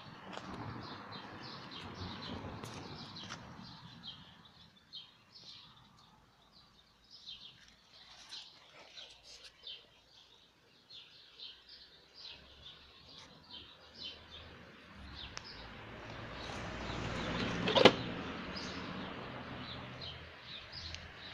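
Small birds chirping on and off, with one sharp knock near the end.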